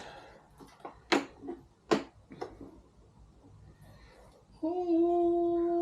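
A few light clicks and knocks, then a man's long, steady-pitched 'ohh' near the end.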